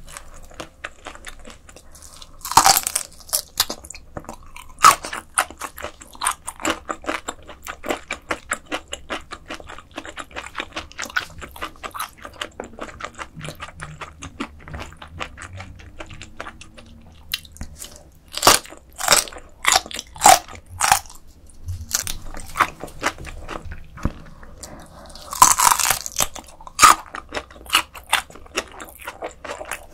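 Close-miked chewing of raw whole gizzard shad sashimi eaten bone-in, a steady stream of small crisp crunches as the fine bones break. There are louder crunchy bites a few seconds in, a run of several past the middle, and another near the end.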